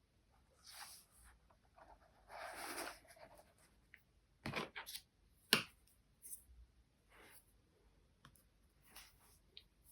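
Charcoal pencil scratching across paper in two short strokes, followed by several sharp light clicks and taps, the loudest about halfway through.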